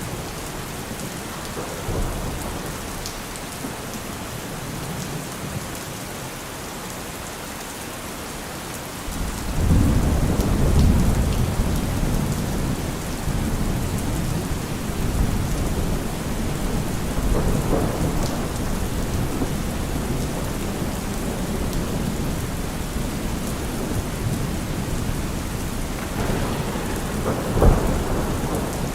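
Steady rain falling with thunder. A deep rumble of thunder swells about a third of the way in and rolls on. A sharper, louder clap comes near the end.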